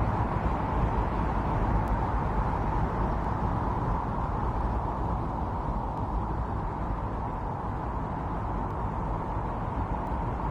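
Strong wind blowing in a snowstorm: a steady rushing noise over a low rumble, a little softer from about four seconds in.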